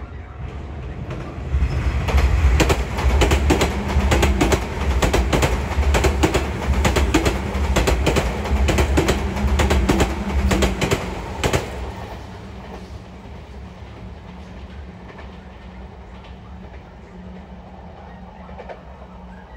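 Sotetsu electric commuter train passing close by, its wheels clattering rapidly over the rail joints for about ten seconds, then fading away as it recedes.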